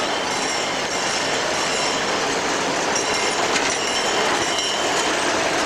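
A train of heritage passenger carriages rolling past close by. The wheels run on the rails with steady noise, a thin high wheel squeal and a few clicks over rail joints.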